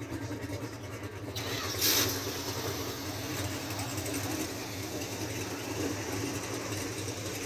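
Car engine idling steadily, with a short, loud burst of noise about two seconds in.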